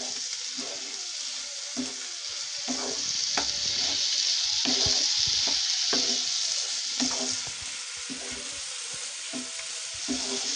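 Chopped squash and onion sizzling in oil in a nonstick wok over a high flame, with a spatula stirring and scraping the pan in irregular strokes. The sizzle swells louder in the middle and eases near the end.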